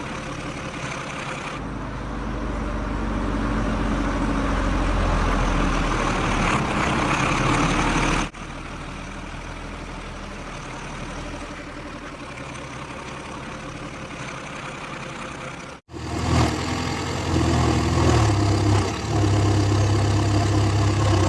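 Heavy diesel engines of a backhoe loader and trucks running at a worksite, steady through most of the stretch, with abrupt jumps in level where the clips change. In the last few seconds the engine note steps up and down as the machine works under varying load.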